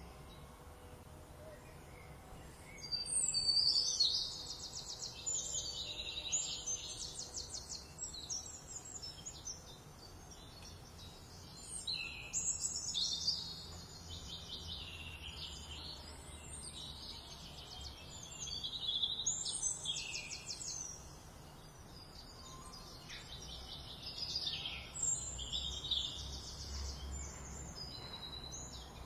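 Songbirds singing in several bouts of high chirps and rapid trills, with short pauses between them.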